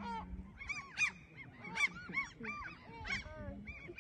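A flock of waterbirds calling, many short arched calls overlapping several times a second.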